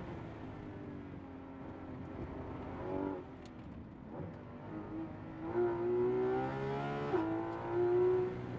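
Porsche 911 GT3 RS's naturally aspirated flat-six heard from inside the cabin. It runs off the throttle under hard braking, with a brief rise in revs about three seconds in as it downshifts to second. It then pulls out of the corner with climbing pitch, drops in pitch on the upshift to third just past seven seconds, and climbs again.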